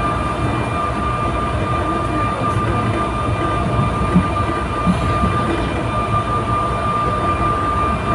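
Inside a Trenord 'Piano Ribassato' double-deck train running at speed: a steady rumble of wheels on the track with a constant high whine, and two brief knocks about four and five seconds in.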